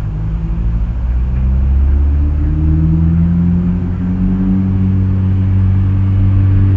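A motor vehicle's engine running close by, a low rumble whose pitch climbs slowly and steadily as it accelerates.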